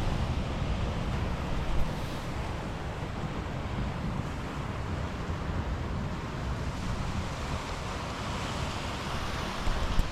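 Wind buffeting the microphone over a steady rush of noise, with a light click about two seconds in and another near the end.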